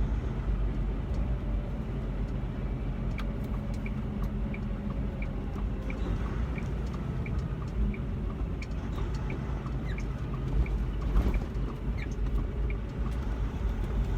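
Semi tractor's diesel engine running, with a low rumble heard inside the cab. Through the middle a turn signal ticks evenly, about one and a half ticks a second.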